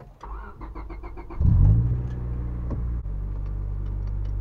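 Honda Civic EX's four-cylinder engine with an aftermarket exhaust cranking briefly on the starter, then catching about a second and a half in with a short rev before settling into a steady idle.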